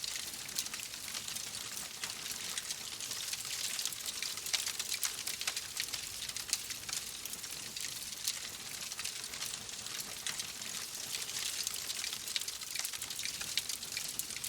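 Wood fire crackling in a fireplace: a steady hiss scattered with many small, sharp pops and snaps.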